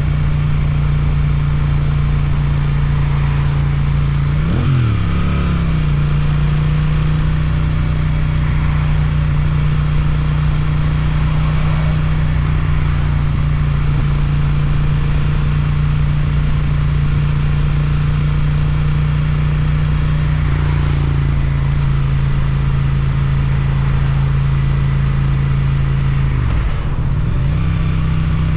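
Suzuki twin-cylinder motorcycle engine through an Akrapovic exhaust, running at a steady cruise. The engine note dips briefly and climbs back about five seconds in and again near the end.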